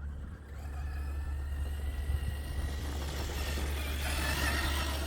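Electric motor and geared drivetrain whine of an Axial SCX6 Honcho 1/6-scale RC crawler driving in high (second) gear. The thin whine rises slightly in pitch over the first couple of seconds, and a rougher noise builds in the second half.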